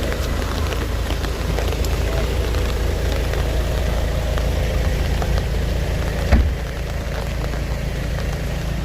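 Steady downpour of rain and hail pattering on surfaces, with a low rumble under it and scattered small ticks. One sharper knock comes about six and a half seconds in.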